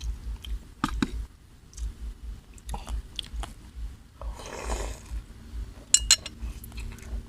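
A person chewing a mouthful of spicy seafood papaya salad with rice noodles close to the microphone, in a steady chewing rhythm with small wet clicks. A short breathy rush comes about halfway through, and a couple of sharper clicks about six seconds in.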